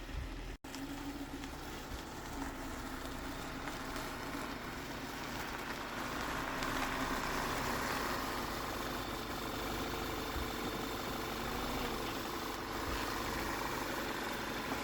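Volkswagen Tiguan's 2.0 TSI turbocharged four-cylinder engine running steadily after its cylinder head rebuild, with a brief break about half a second in and getting slightly louder around midway.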